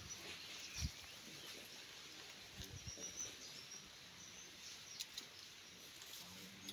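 Quiet outdoor background with faint, short, high bird chirps now and then. A soft thump about a second in and a few light clicks near the middle.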